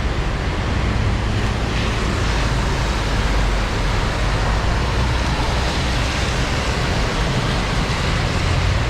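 Heavy rain and road traffic on wet city streets: a constant hiss with a low rumble underneath.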